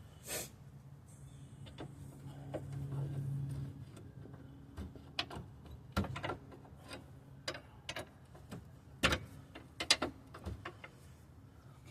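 Irregular metallic clinks and knocks of tools and suspension parts as a steering knuckle is worked into place, with a low hum that swells for a couple of seconds early on.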